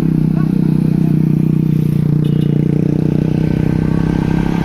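Truck engine running steadily close by, with a rapid even pulsing.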